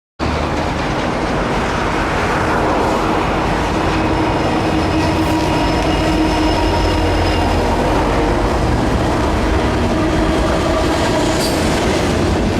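Intermodal freight train rolling past: a steady, loud rumble of wheels on rail, with faint thin squealing tones held over it.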